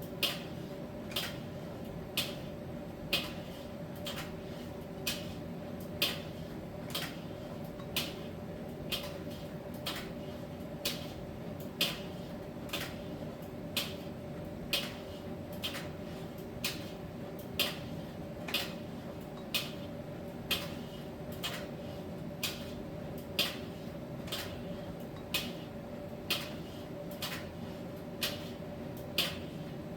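Miele T1 heat-pump tumble dryer running mid-cycle, a steady machine hum under a light, regular tap about once a second as the drum turns.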